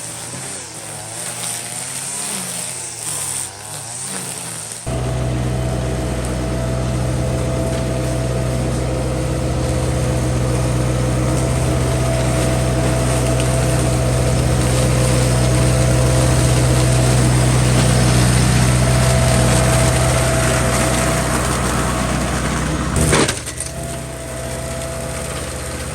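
Small gasoline engine of yard equipment used for mowing and weed trimming. It wavers in speed at first, then about five seconds in a steady, even drone starts abruptly. A sharp knock comes near the end, and the engine runs on more quietly after it.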